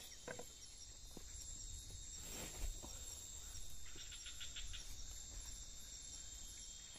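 Steady high-pitched chorus of forest insects, with a few light knocks, one louder knock about two and a half seconds in, and a brief rapid pulsing trill about four seconds in.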